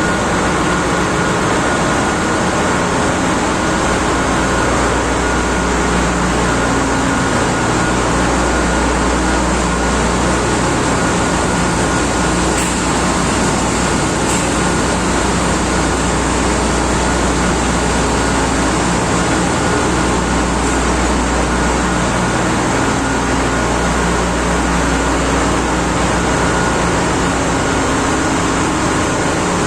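Ship's engine room machinery running: a loud, steady mechanical drone with a thin steady whine above it.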